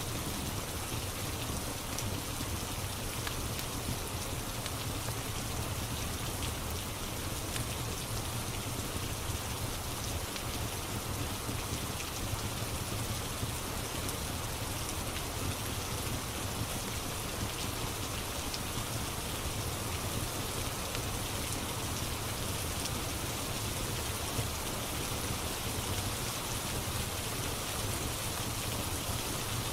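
Steady rain falling, an even hiss dotted with faint drop ticks.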